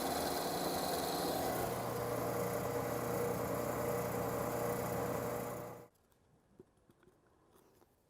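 An electric power tool's motor runs steadily, then stops abruptly about six seconds in, leaving only faint small clicks.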